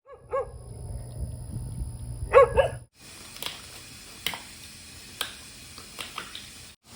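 A dog barks once near the start and twice in quick succession about two and a half seconds in, over a low rumble. After a sudden cut, sharp clicks follow roughly once a second.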